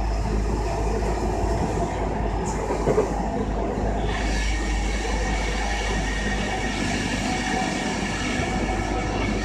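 JR East E233-2000 series electric train running at speed, heard from inside the passenger car: a steady rumble of wheels and running gear. About four seconds in the sound gets brighter, with a faint high whine.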